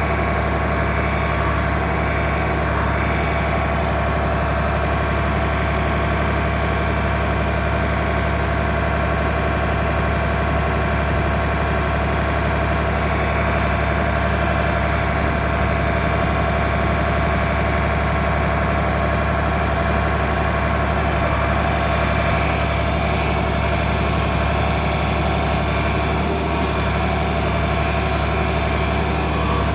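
An engine idling steadily, its hum even with no change in speed.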